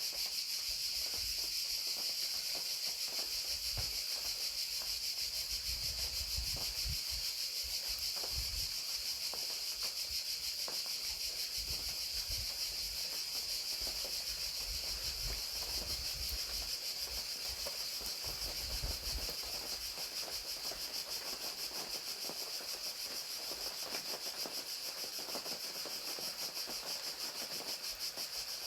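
Crickets chirping in a steady, high-pitched, rapidly pulsing chorus, with rain pattering lightly underneath and a low rumble that comes and goes.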